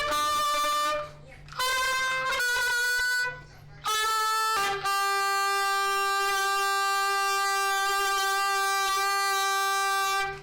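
A single musical instrument playing held notes with a bright tone: a few notes about a second long with short breaks between them, then one long steady note of about six seconds that stops abruptly.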